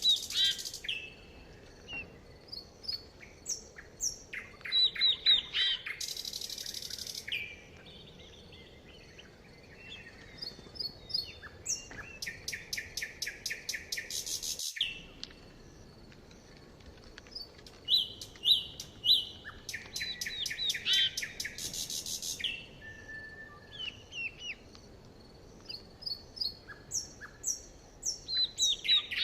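Songbirds singing: bursts of rapid trills and short repeated chirps, in phrases of a few seconds with quieter gaps between.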